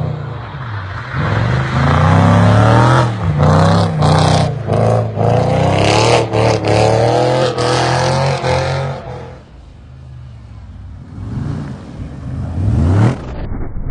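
Audi RS V8 engine revving hard under load, its pitch climbing and holding high with short breaks, then dropping away. Near the end a second rev climbs quickly before cutting off.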